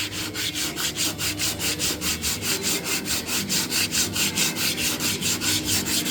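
Sanding block rubbed rapidly back and forth by hand over the primed steel tailgate of a 1959 Chevrolet El Camino: an even, rhythmic rasp of about five strokes a second.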